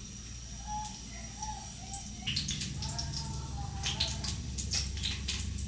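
Outdoor ambience: a bird calling in a run of short, low cooing notes, over an insect's steady high drone. From about two seconds in, a spell of sharp clicks and clatter joins in.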